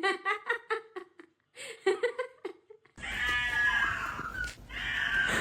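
A cat vocalising: two runs of short, rapid calls, then two long, high meows that fall in pitch, starting about three seconds in.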